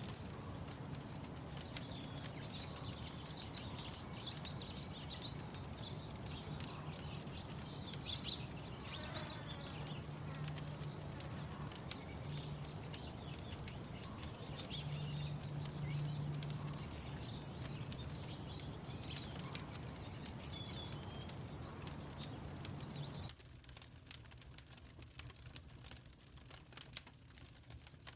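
Songbirds chirping and singing over a steady low hum, with scattered crackling clicks throughout. About 23 seconds in, the birdsong and hum cut off abruptly, leaving mostly sparse crackling like a wood fire.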